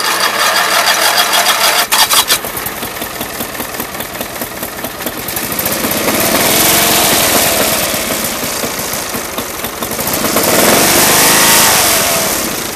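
Riding mower's small gasoline engine running unevenly, its speed swelling up and falling back twice instead of settling to an idle: the mower has sat so long it doesn't want to idle.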